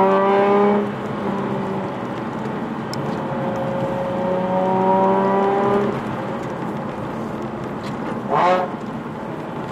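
Nissan Fairlady Z34's V6 engine heard from inside the cabin, rising in pitch as it accelerates during the first second and again from about four to six seconds in, over steady road and tyre noise.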